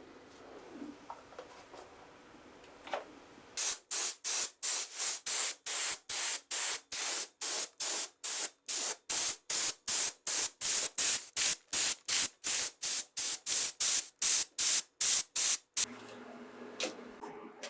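Aerosol spray paint can hissing in quick short bursts, about three a second, starting a few seconds in and stopping shortly before the end.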